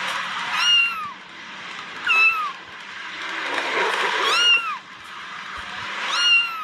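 Kitten meowing four times, each a short high-pitched meow that rises and falls, over a steady background hiss.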